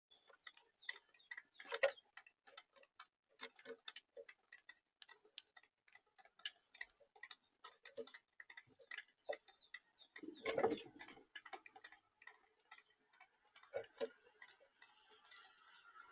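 Faint, irregular small clicks and taps, a few a second at times, with a louder knock about two seconds in and a brief scuffling noise around ten seconds in.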